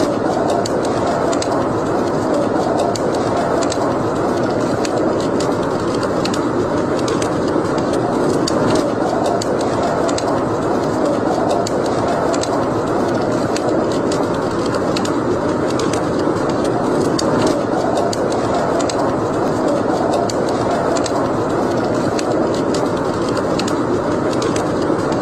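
Wood fire burning in a fireplace: a steady rush of flames with frequent small crackles and pops throughout.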